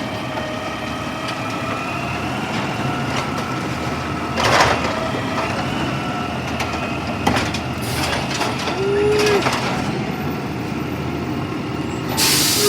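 A 2011 garbage truck's engine running steadily with a constant whine over it. A short hiss of air comes about four and a half seconds in, and a louder hiss comes near the end.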